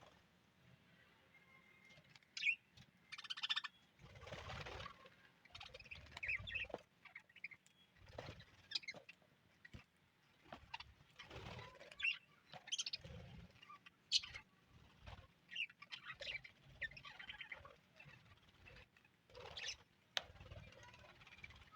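A colony of budgerigars chirping and chattering: many short, scattered calls and warbles, fairly faint, throughout.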